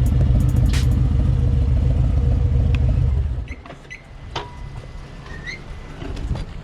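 Harley-Davidson V-twin motorcycle engine running with a low rumble, which drops away about three and a half seconds in, leaving quieter background noise with a few light clicks.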